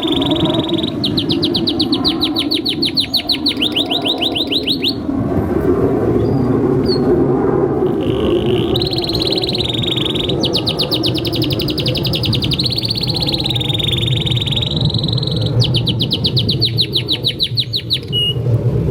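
Canary singing long rolling trills of rapid repeated notes in several long phrases, with a pause of a few seconds between them, over a steady low background noise.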